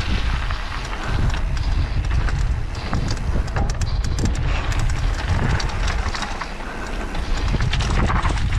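Mountain bike descending a bike-park trail: wind buffeting the microphone in a heavy rumble, with frequent sharp rattles and knocks from the bike over bumps.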